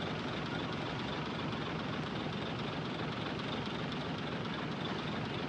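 Heavy diesel earthmoving machinery running steadily, an even engine noise with no changes in pitch or level.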